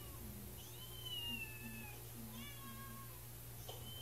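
Cat mewing repeatedly, faint and high-pitched, with one longer call about a second in.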